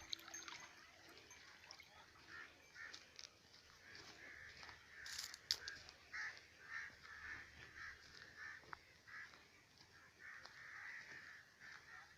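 Faint bird calls: a long string of short notes repeated roughly twice a second, with two sharp clicks about five seconds in.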